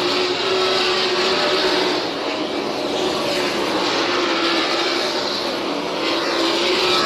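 410 sprint cars running flat out on the last lap, their methanol-burning V8 engines giving a loud, steady, high-revving sound, with a car sweeping past near the end.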